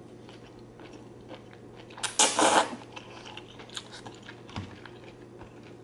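Close-miked mouth sounds of a person chewing zucchini noodles and shrimp in Alfredo sauce: many small wet clicks and smacks, with one louder half-second burst of noise about two seconds in.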